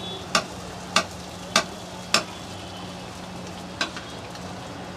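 Samosas deep-frying in hot oil, a steady sizzle, with sharp knocks of a utensil stirring in the pan: four about every half second early on, then one more near the end.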